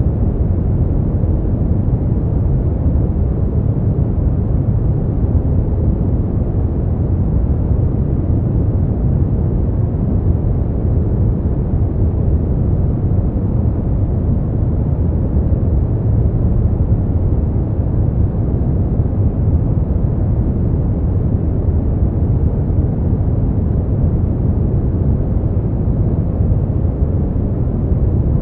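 Steady brown noise: an even, deep hiss weighted toward the low end, with no change in level or character.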